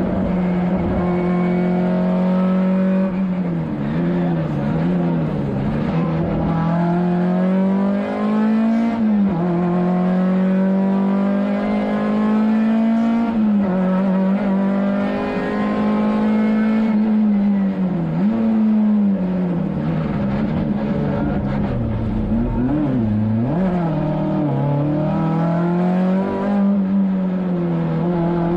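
Škoda 130 LR rally car's rear-mounted four-cylinder engine heard from inside the cabin, held at high revs under hard driving. The pitch drops and climbs again several times as the driver lifts, brakes and shifts gear.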